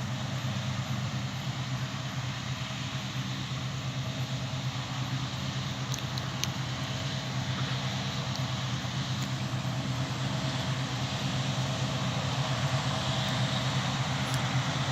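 Claas Lexion combine harvester working in the field, with the carting tractor alongside: a steady engine drone that grows slightly louder over the seconds.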